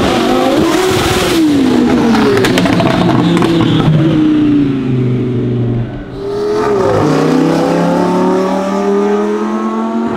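Twin-turbo Lamborghini Huracán V10 accelerating hard, its pitch climbing, easing off, then dropping sharply about six seconds in before climbing again. Quick sharp pops come in the first few seconds.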